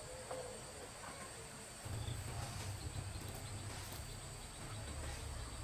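Insects, crickets or similar, keeping up a steady high trill. A low rumble comes in about two seconds in and is the loudest sound from then on, with a few faint chirps and clicks over it.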